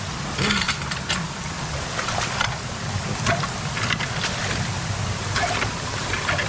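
Creek water running steadily with a low rumble, and short splashes every second or two as debris is pulled through it.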